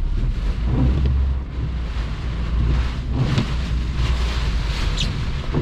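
Hurricane-force wind gusting, with a heavy low rumble of wind buffeting the microphone and a rushing that swells twice, about three and five seconds in.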